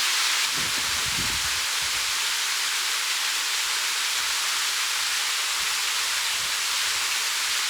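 Mountain stream rushing, a steady even hiss of running water, with brief low rumbling in the first couple of seconds.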